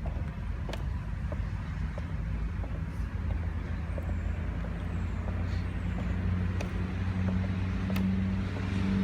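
Steady low mechanical rumble with a hum that swells slightly near the end, and a few faint clicks.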